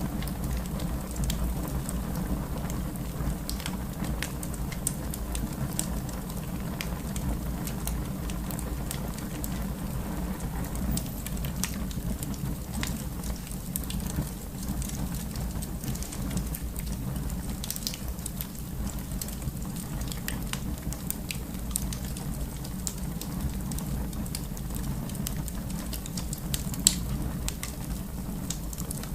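Wood fire burning in a fireplace, crackling with frequent small irregular pops over a steady low rumble of the flames; one sharper pop near the end.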